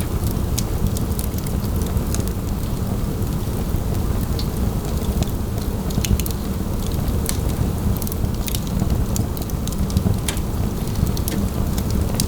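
Wood fire burning in a fireplace: many scattered sharp crackles and pops over a steady low rumble.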